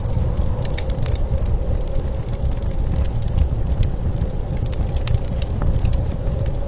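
Wood fire crackling with scattered small pops, over a steady low rumble of blizzard wind with a faint held whistle.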